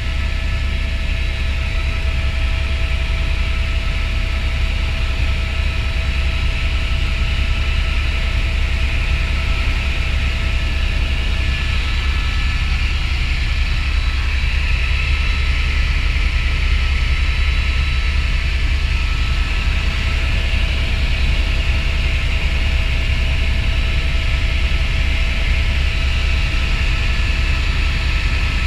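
Helicopter running steadily in flight: a heavy low rotor rumble under a steady turbine whine and hiss.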